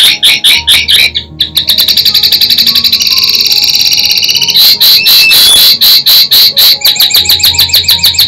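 Linnet singing a fast twittering song of rapid repeated chirps and trills, over soft background music.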